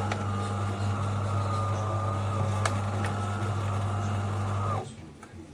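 De'Longhi Magnifica Start bean-to-cup coffee machine running: a steady low electric buzz with a higher whine over it starts suddenly and cuts off after about five seconds, with a couple of faint clicks partway through.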